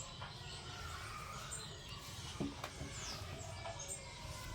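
Budgerigars chirping: scattered short high chirps and quick falling whistles, with a couple of soft clicks about two and a half seconds in, over a low steady hum.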